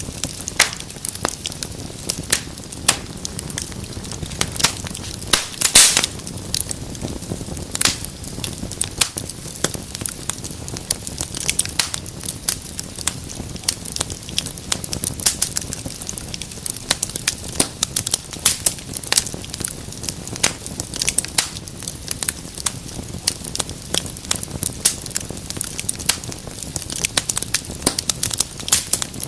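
Wood fire in a fireplace crackling: frequent irregular sharp pops and snaps over a soft steady hiss of burning.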